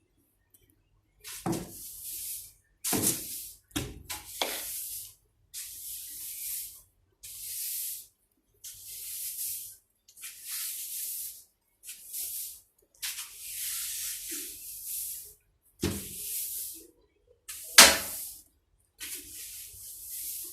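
A bristle brush swishing in repeated cleaning strokes, about a dozen in a row, each under a second long and separated by short pauses. Several knocks come in among them, a few near the start and the loudest a little before the end.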